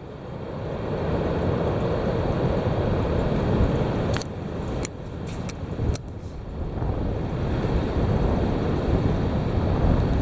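Strong wind gusting and buffeting the microphone, a low rumbling rush that builds toward the end, with a few sharp clicks between about four and six seconds in.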